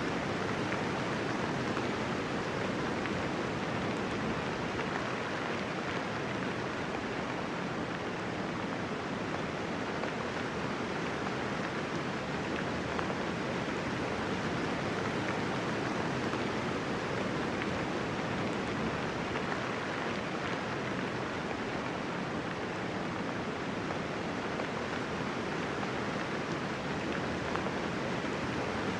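Steady rainfall, an even hiss of raindrops with no thunder.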